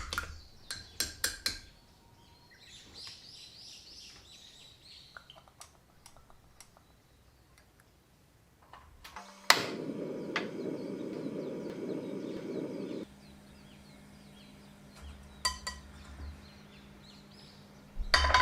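Kitchen cooking sounds: utensils clicking and clinking against dishes and pans. About nine seconds in, a sharp click starts a steady low rushing noise that runs for about three and a half seconds and then stops abruptly, leaving a low hum.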